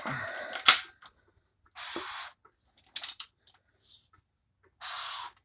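A sharp metallic click under a second in, then three short rushing, scraping bursts about a second apart, from a freshly assembled small-block Ford stroker engine being handled and worked by hand.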